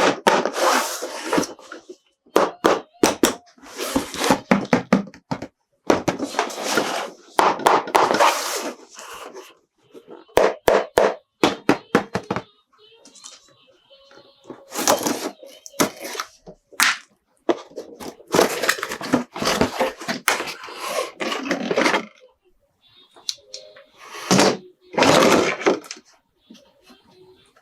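A plastic toy and its packaging being handled and opened: irregular bursts of plastic rustling and crinkling, with sharp clicks and knocks.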